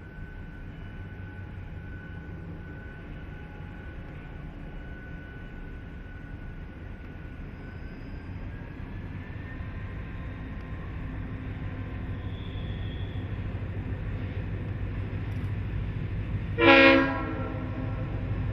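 Diesel locomotive approaching, its low engine rumble slowly growing louder, with one short horn blast near the end.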